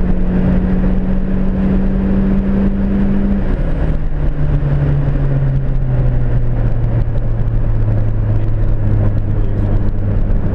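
Turbocharged 1.8 Ford Zetec four-cylinder engine of a Ford Fiesta XR2i, heard from inside the cabin over road noise. It holds steady revs, then about three and a half seconds in the engine note drops and keeps sinking slowly.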